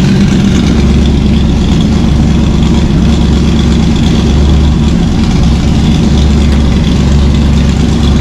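1965 Ford Mustang Fastback engine idling steadily on fresh oil. It runs clean, with no knocking or valve-train noise.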